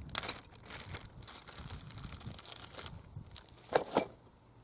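Hands handling a clamp-on chainsaw bar guard (Timber Tuff Chainsaw Buddy) while getting it ready to fit: irregular rustling and scraping, then two sharp clicks in quick succession near the end.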